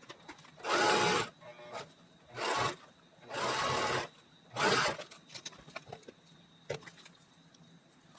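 Paper being worked by hand: four short rasping strokes in quick succession, with light taps and clicks around them.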